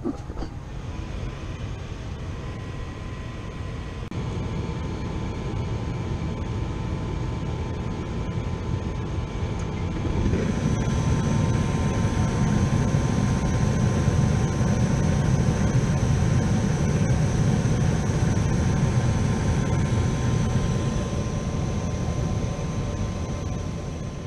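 Gas furnace running steadily with its burners lit after its dirty flame sensor was cleaned, a constant motor whine over a rush of air that grows louder and deeper about ten seconds in.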